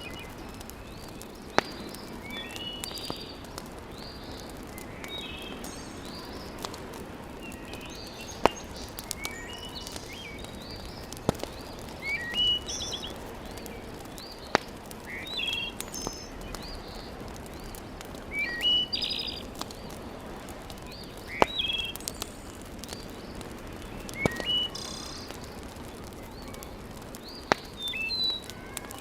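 Wood fire in a fireplace crackling, with sharp single pops every few seconds over a steady low hiss, while small birds chirp on and off.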